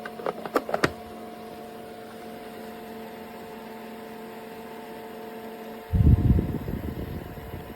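Small electric fan motor of a mini air cooler humming steadily, with a few sharp clicks in the first second. About six seconds in, a loud low rumbling burst of noise cuts in and fades over a second or so.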